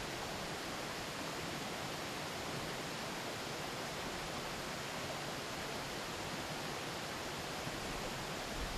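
Steady rushing murmur of a river flowing through forest, an even wash of water noise; a low rumble creeps in near the end.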